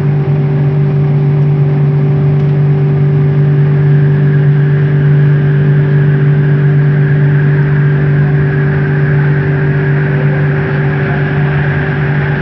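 Bombardier Innovia ART 200 metro train heard from inside the car, running at steady speed: its linear induction motor drive gives a steady low hum with a second, higher steady tone over the even running rumble.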